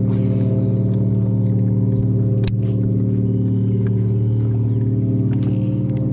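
Boat's outboard motor running at a steady speed, a low even hum. There is a single sharp knock about two and a half seconds in.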